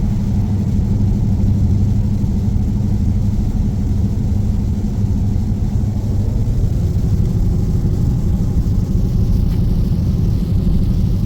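Dodge Scat Pack's 6.4-litre HEMI V8 and its tyres, heard from inside the cabin as a steady low drone while cruising at highway speed.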